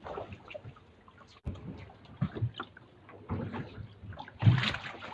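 Sea water splashing and sloshing against a small fishing boat in irregular bursts, with one louder splash about four and a half seconds in.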